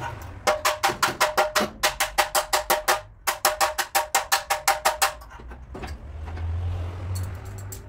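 A hammer rapidly tapping a car body's sheet metal, about five blows a second, each with a metallic ring, in two runs split by a short pause. A steady low hum follows near the end.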